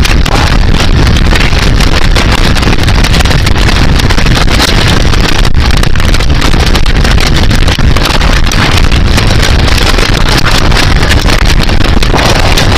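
Loud, steady rush of storm wind, with no letup.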